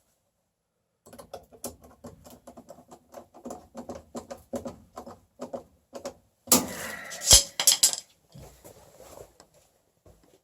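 Rapid, irregular clicking and rattling of hand work with tools and parts, with a louder stretch and one sharp knock about seven seconds in.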